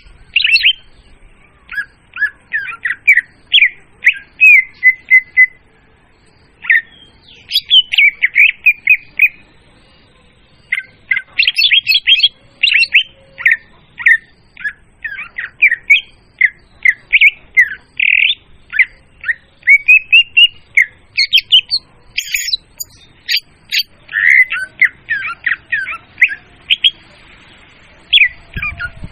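Leafbird (murai daun) song used as a bird-trapping lure: long, rapid runs of loud, clear, varied whistled and chattering notes, with two short pauses.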